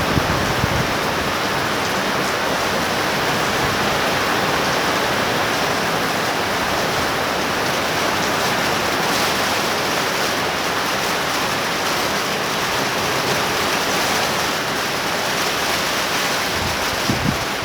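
Heavy rain pouring down in a steady, even hiss from a thunder shower. Near the end a brief gust of wind buffets the microphone.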